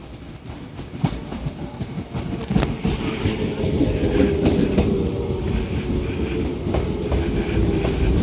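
Shinano Railway 115 series electric train running by, growing louder, its wheels clacking over the rail joints with a steady low hum under the rumble.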